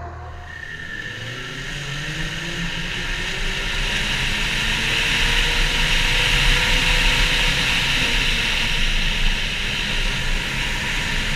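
Ski-Doo MXZ Blizzard snowmobile with the 900 ACE four-stroke three-cylinder engine, riding along a trail. A steady rushing noise sits over the low engine rumble and grows louder over the first few seconds, then holds.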